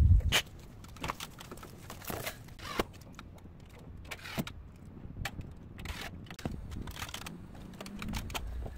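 Irregular clicks, taps and knocks of work handling, with a loud thump right at the start.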